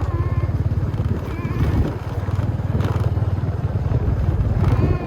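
A small engine running steadily, with a fast even pulsing.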